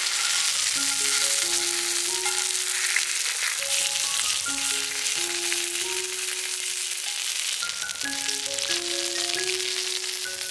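Food sizzling steadily in a hot iron frying pan, under background music with a slow melody of held notes.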